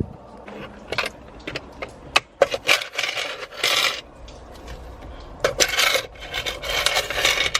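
Loose coins clinking and rattling, with scrapes, rustles and small knocks as things are picked up and rummaged through, at irregular moments.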